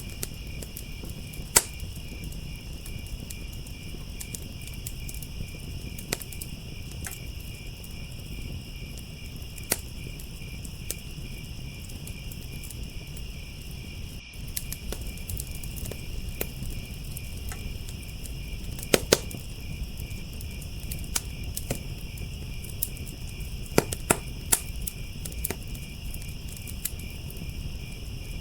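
Crickets chirping in a steady, continuous trill over a crackling wood fire. The fire gives sharp pops every few seconds, the loudest a close pair about nineteen seconds in.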